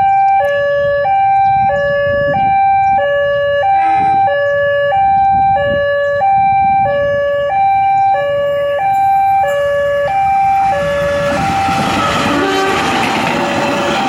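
Railway level crossing warning alarm sounding an alternating two-tone, high and low, each tone about two-thirds of a second long. From about eleven seconds in it fades under the rising rumble of an approaching train.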